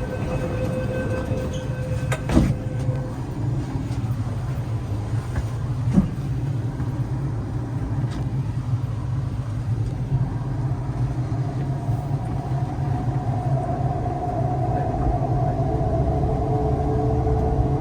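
MTR East Rail Line R-train doors closing and the train pulling away: steady warning tones for about the first three seconds, ending in a thump as the doors shut, then a second knock. The train runs on with a low rumble, and the electric traction motor whine comes in partway through as it gets moving.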